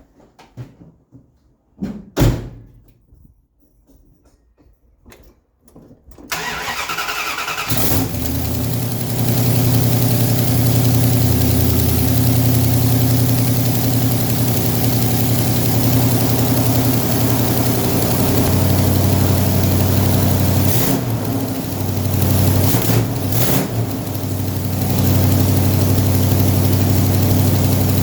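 A thump about two seconds in, then a Chrysler 400 cubic inch V8 cranked on the starter for about a second and a half before it catches and runs steadily. The exhaust blows at the joint between the manifolds and the pipes on both sides, which the owner puts down to the gaskets.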